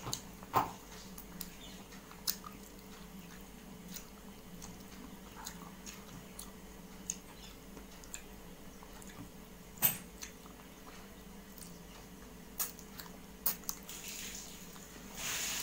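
A person chewing food with the mouth close to the microphone: soft chewing with scattered wet mouth clicks and smacks, a few of them sharper, and a short louder noisy sound near the end.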